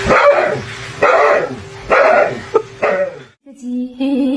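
A dog barking loudly in a series of barks, about one a second, the last two coming quicker. Near the end a short, steady pitched sound follows.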